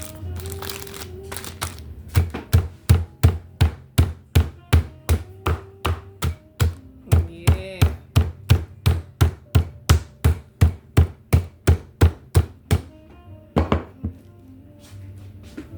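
Chicken breast being pounded flat on a board, a steady run of sharp thuds about three a second that stops near the end, with two last blows after a short pause.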